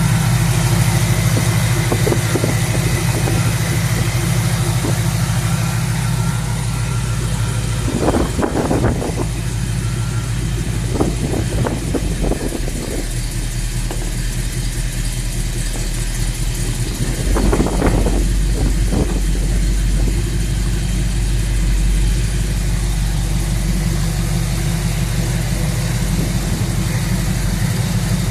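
1979 Jeep J20 pickup's engine idling steadily, with two brief rises in its sound, about eight seconds in and again near eighteen seconds.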